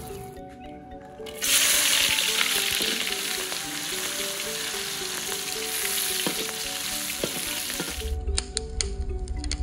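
Garlic, shallots and chilies frying in hot oil in a wok, a loud sizzle that starts suddenly about a second and a half in. Near the end the sizzle stops and a wood fire crackles with sharp pops.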